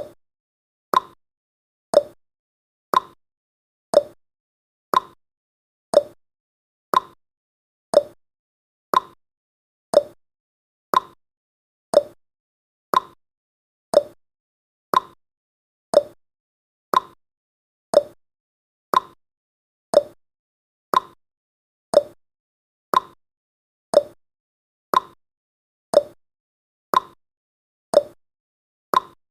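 Countdown timer's ticking sound effect: one short sharp tick every second, evenly spaced, with silence in between.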